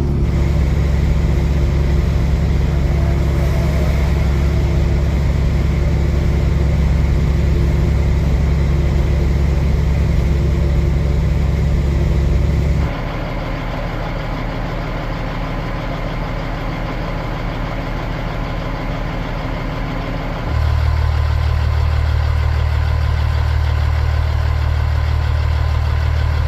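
Semi truck's diesel engine and road noise heard from inside the cab, a steady low drone. About halfway through it drops suddenly to a quieter, different drone, then jumps back up about eight seconds later.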